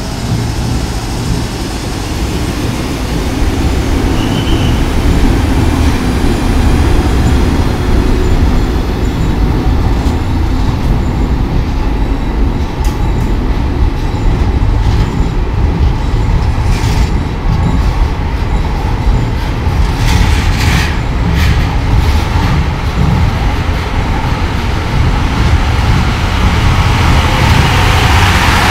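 Train hauled by an EF65 electric locomotive running along the track with a steady, loud low rumble. Sharp wheel clicks come now and then over the middle of it.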